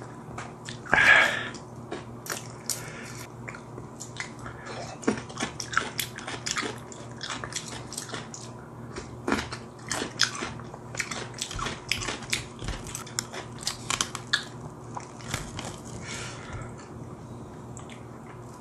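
A person chewing crispy fried chicken close to the microphone: crunching with many short crackling clicks and wet mouth sounds, with the loudest bite about a second in.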